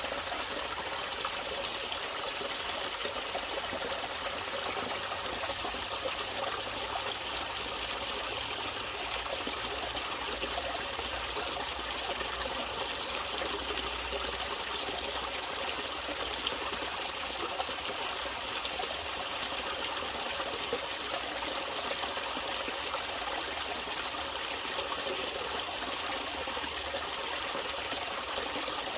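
A natural stream of running water trickling steadily, without pause.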